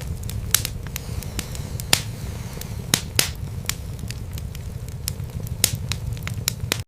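Wood fire burning in a fireplace: irregular sharp crackles and pops, the loudest about two and three seconds in, over a steady low rumble of the flames.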